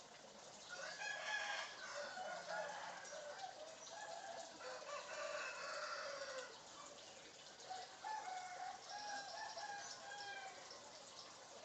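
Bird calls that sound like a chicken's clucking and crowing, in two runs: from about a second in to six and a half seconds, and again from about eight to ten and a half seconds in.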